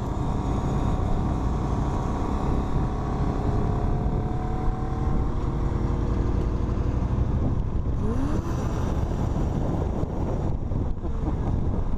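Motorcycle riding at road speed: steady engine rumble mixed with wind noise on the helmet microphone.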